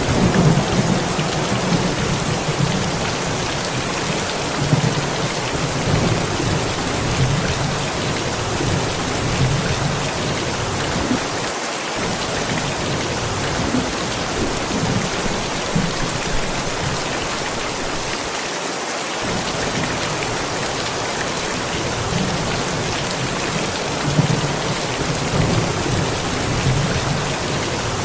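Steady rain falling, with low rolling thunder rumbling on and off.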